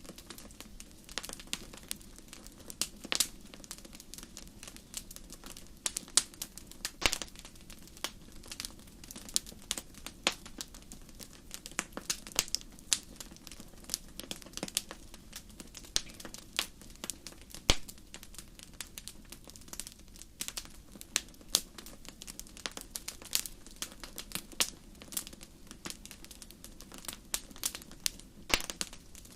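Campfire crackling: irregular sharp pops and snaps, a few a second, over a faint steady low rush.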